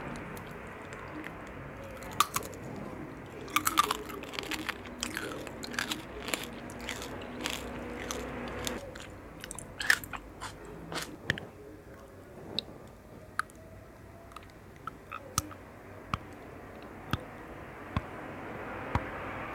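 A person biting and chewing crunchy sweets: a dense run of sharp crunches through the first half, thinning to occasional single crisp clicks later on.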